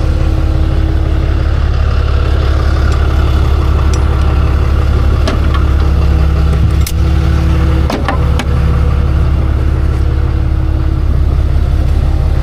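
Tow truck engine idling steadily, with a few sharp clicks in the middle.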